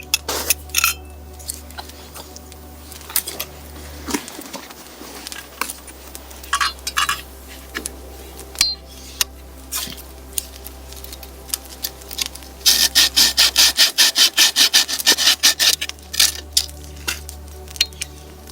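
Hand work with scattered clicks and knocks, then about three seconds of fast, even scraping strokes, roughly eight a second, loud and rasping, a little after the middle.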